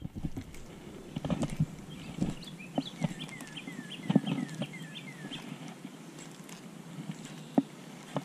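A songbird singing a quick run of about eight downslurred whistled notes, with scattered sharp clicks and knocks close by and a low steady rumble underneath.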